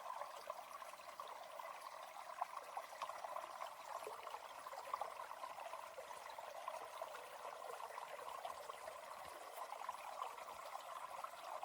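Water running in a small stream: a steady, fairly faint trickle made of many tiny splashes.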